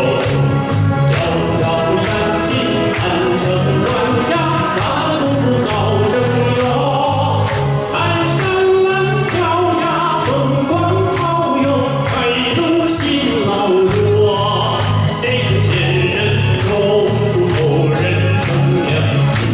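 Live singing of a Mandarin folk song over a backing track with a steady beat and a repeating bass line.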